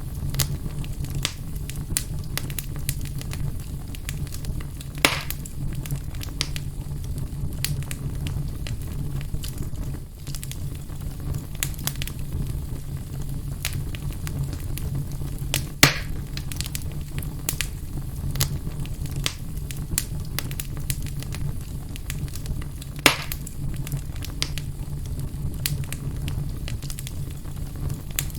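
Fire burning in a fireplace, crackling with many small snaps over a steady low rumble, and three louder pops.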